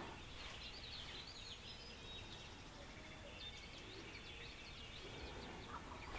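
Faint songbirds chirping in quick bursts of short calls, over a steady outdoor background hiss.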